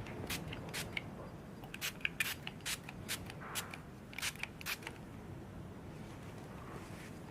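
A quick run of about a dozen small, sharp clicks and snips from hands working something small, stopping about five seconds in.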